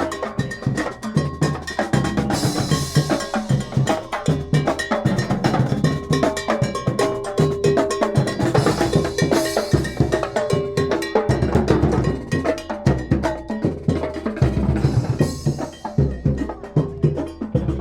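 Street drum band playing a fast, driving beat on drums, with a cowbell clanging over the top.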